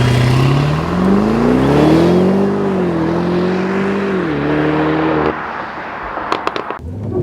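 Alpina B6's twin-turbo 4.4-litre V8 held at raised revs on the brake, then launching from a standstill in first gear, its pitch rising and dipping at two gear changes. The launch is a little hesitant at first. The sound cuts off suddenly about five seconds in, followed by a few sharp clicks, and a steady engine note returns near the end.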